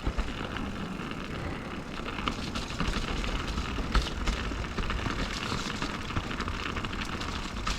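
Mountain bike rolling fast down a dirt flow trail: steady tyre noise on dirt with a low rumble, and many small clicks and rattles from gravel and the bike's drivetrain and frame, with a sharper knock about four seconds in.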